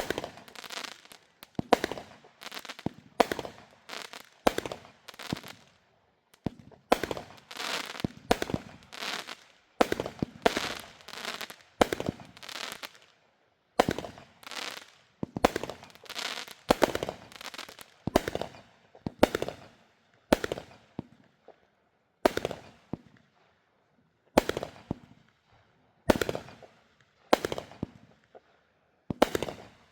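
Consumer fireworks going off in a long, irregular series of sharp bangs, roughly one or two a second, each with a short crackling tail.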